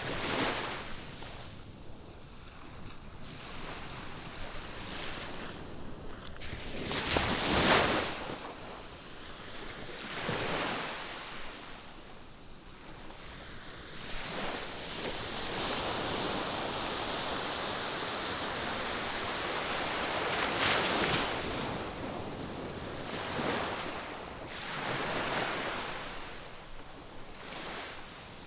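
Ocean surf breaking on a sandy beach: waves rush in and wash back in swells every few seconds, the strongest about a quarter of the way in, followed by a long drawn-out wash through the middle.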